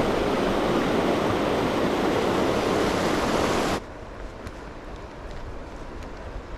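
Steady rush of flowing river water, which cuts off abruptly about four seconds in, leaving a much quieter outdoor background with a few faint ticks.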